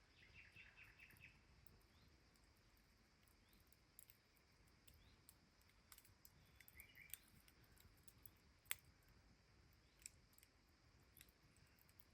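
Faint campfire crackling: scattered sharp pops and clicks, one much louder about three-quarters of the way through. A quick run of high chirps comes near the start, and a shorter cluster just past the middle.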